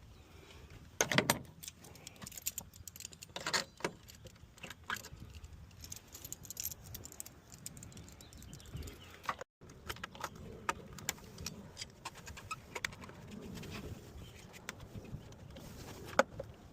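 Irregular metallic clinks, taps and rattles of hand tools working on the radiator hoses to take them off, with the loudest knocks about a second in and again about three and a half seconds in.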